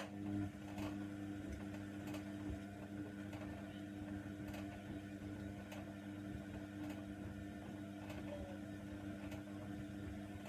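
Hoover Nextra washer dryer's motor turning the drum during the wash: a steady hum with a faint click roughly every second.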